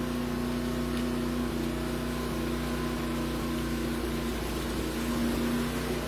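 An engine running steadily at a constant speed, a continuous even hum.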